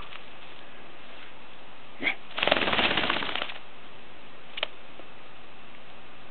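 Paper rustling and crinkling in a brief rattling burst about a second long, with a faint click just before it and a single sharp click later.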